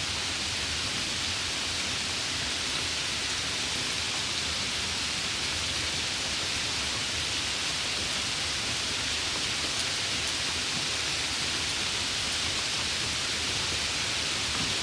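Steady, even rain hiss with no separate drops standing out, a continuous wash of noise for sleep.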